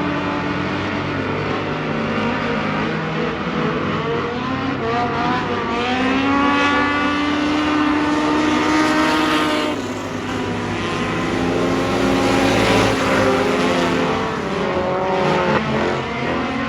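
Race car engines running hard at speed. The pitch climbs under throttle, drops sharply about ten seconds in as the throttle is lifted, then climbs again.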